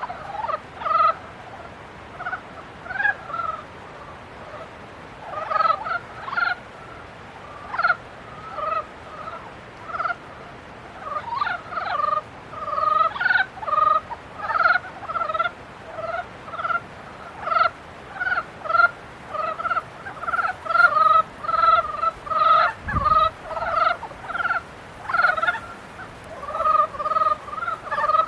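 A chorus of frogs calling in breeding season: many short, rattling croaks overlap and repeat one to three times a second. About two-thirds of the way through there is one low thump.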